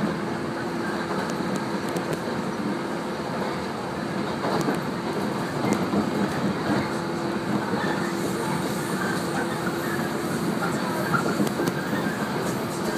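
115-series electric train heard from inside the carriage while running at speed: steady rumble of wheels on the rails with a steady hum and a few faint clicks.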